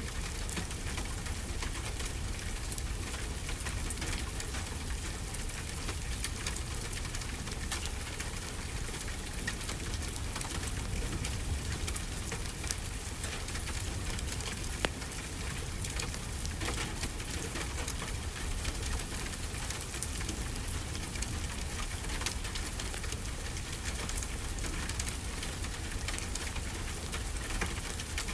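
Steady rainfall, with scattered sharp crackles of a wood fire.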